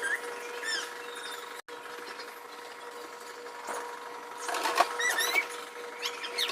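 Short high squeaks and light knocks of fridge parts being handled and wiped, over a steady hum. There is a burst of squeaks near the start and another about five seconds in.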